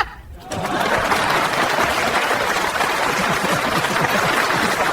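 Courtroom crowd reacting with laughter and clapping: a loud, dense, steady din that starts about half a second in.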